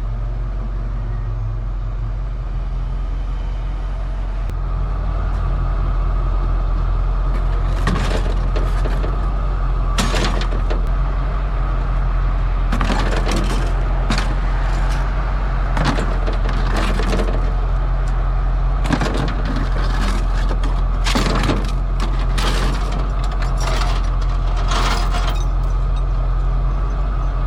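Rollback tow truck's engine running steadily while driving, heard from the cab, with irregular sharp clicks and cracks from about eight seconds in.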